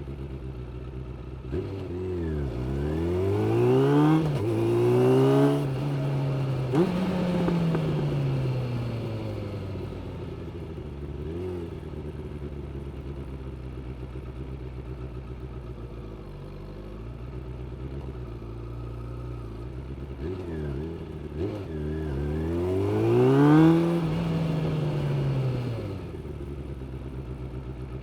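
Suzuki GSX600F's inline-four engine pulling away twice: revs climb steeply with quick drops in pitch at the gear changes, then ease off to a low, steady run between the two pulls.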